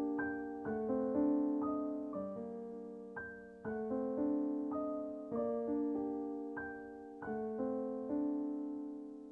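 Background piano music: a slow melody of single struck notes that ring and die away, fading out near the end.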